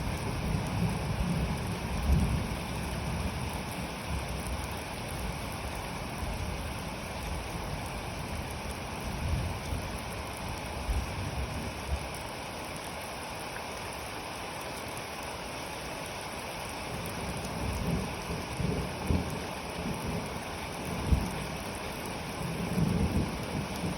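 Steady rain falling, with low rolls of thunder rumbling near the start and again through the last several seconds.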